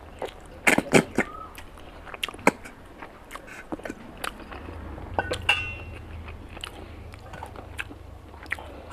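Close-miked eating: a person biting and chewing meat off a curried mutton bone, with many sharp wet mouth clicks and smacks. The loudest bites come about a second in, with others near two and a half and five and a half seconds.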